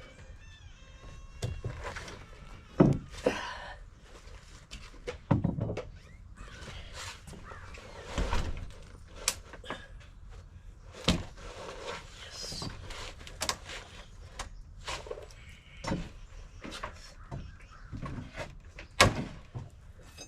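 Irregular knocks and thuds on wood, about a dozen spread unevenly, the loudest about three seconds in and again near the end, from work on a wooden deck.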